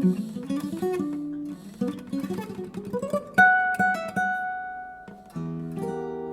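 Solo jazz guitar playing a run of single notes and short phrases. A sharply plucked note about three and a half seconds in is left to ring and fade, and a chord rings out near the end.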